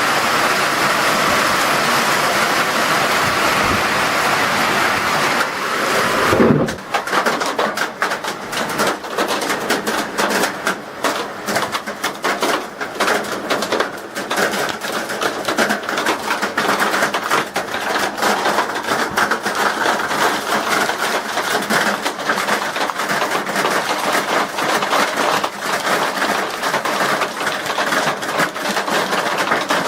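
Hailstorm with strong wind: a steady rushing roar of wind and rain, swelling to a loud low surge about six seconds in. After that come dense, rapid clicks of hailstones pelting hard surfaces, continuing throughout.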